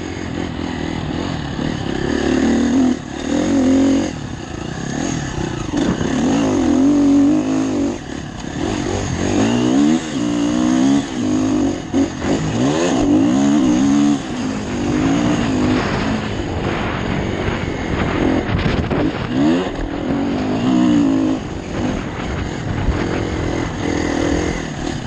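Motocross motorcycle engine revving up and down over and over, the pitch climbing under acceleration and dropping off between gears and corners, heard close from a helmet camera.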